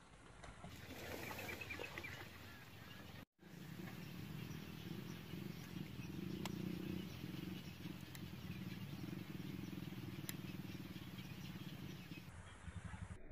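A large flock of cormorants calling. A scatter of higher calls is broken by a sudden cut about three seconds in, and then comes a dense, steady chorus of low calls.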